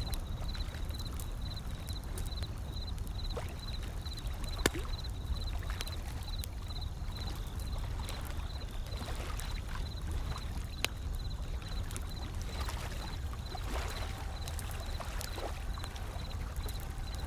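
Wood fire crackling with scattered sharp pops, two of them louder, over a steady low wash of ocean waves. A faint high chirp repeats evenly throughout.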